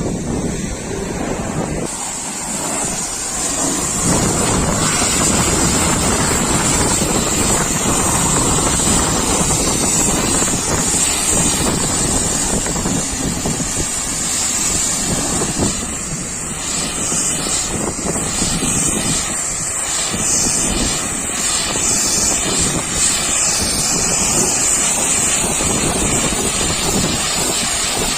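Steady rushing hiss of a high-pressure washer jet spraying water on a truck.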